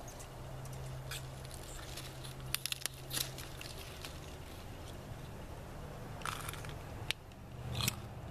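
Someone chewing a raw pea pod, with crisp crunches and clicks coming in short clusters, about two and a half seconds in and again near the end.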